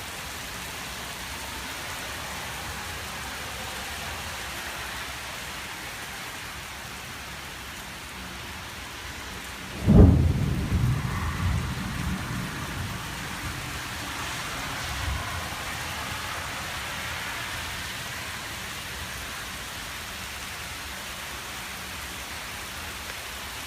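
Steady heavy rain, with a sudden loud, close thunderclap about ten seconds in that rolls off into rumbling over the next few seconds.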